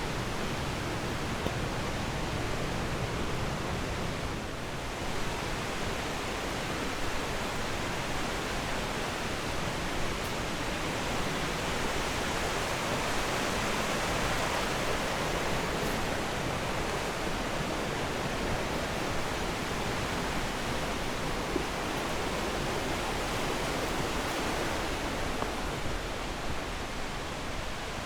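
Rushing water: a steady, even rush with no let-up, swelling slightly about halfway through.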